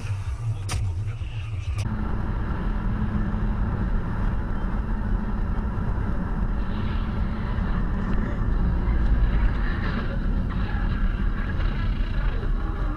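Steady engine and road noise of a moving car, heard from inside the cabin through a dashcam microphone. Two short clicks come in the first two seconds, and the drone changes about two seconds in.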